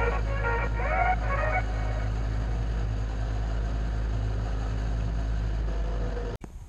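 Coleman CT200U mini bike's 196cc single-cylinder four-stroke engine running at a steady speed, with no revving, and cutting off suddenly near the end. Background music fades out in the first second and a half.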